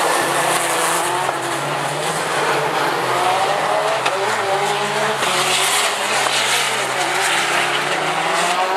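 Several rallycross Supercars racing, their engines revving up and down through the gears over one another.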